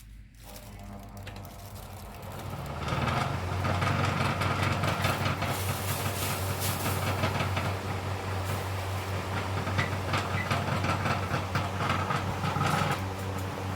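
Restored old electric fan switched on, its motor building up speed over about three seconds, then running steadily with a low mains hum, a rush of air and a fast rattle.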